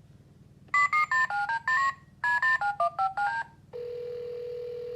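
A Thomas the Tank Engine toy phone's electronic speaker playing two quick runs of short keypad-style dialing beeps that step up and down in pitch. About four seconds in, a steady dial tone starts.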